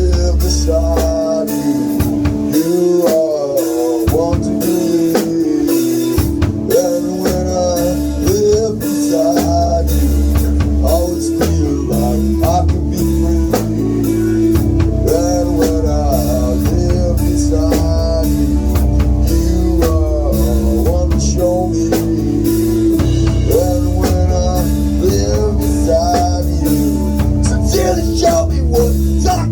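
A rock band playing: drum kit keeping a steady beat under bass and electric guitar, with a lead line of bending, sliding notes over a held chord. The bass drops out for a few seconds near the start.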